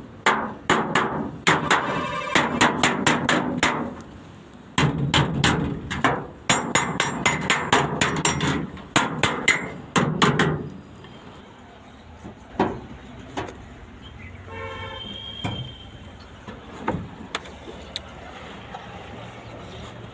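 Hammer blows on the sheet-metal cab of an Ashok Leyland Captain truck during dent repair: two long runs of fast, loud strikes, then only occasional single knocks after about ten seconds.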